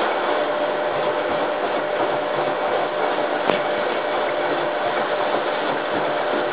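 Hoover Time Manager H130E washing machine turning its drum in the wash stage of a 90° cottons cycle: steady motor running with a steady whine, and a single sharp click about three and a half seconds in.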